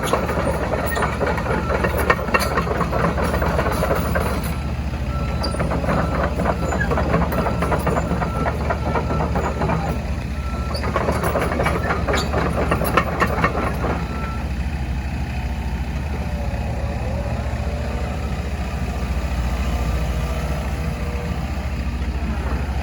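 Komatsu PC138US-11 compact excavator's diesel engine running steadily, with two louder stretches of working noise and a run of short, evenly spaced high beeps through the middle.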